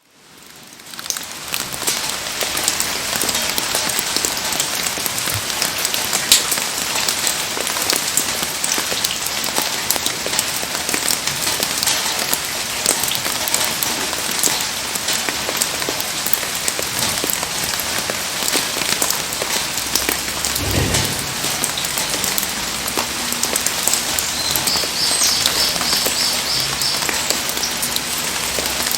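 Heavy rain pouring down, a steady hiss dense with sharp drop impacts. It fades in over the first second or so, and there is a brief low thump about two-thirds of the way through.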